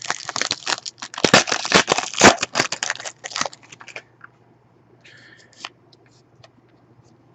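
Foil wrapper of a trading-card pack being torn open and crinkled by hand for about three and a half seconds, then a few faint rustles and clicks.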